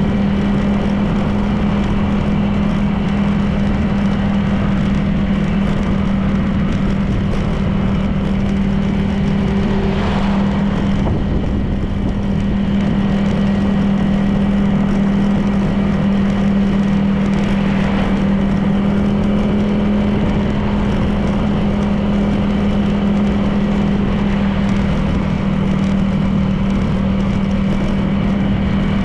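Honda PCX 160 scooter's single-cylinder engine running at a steady cruise, under a constant rush of wind and road noise. A short swish comes about ten seconds in and a fainter one near eighteen seconds.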